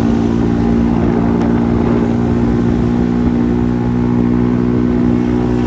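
Motorcycle engine running at a steady speed while being ridden, a constant drone with no change in pitch.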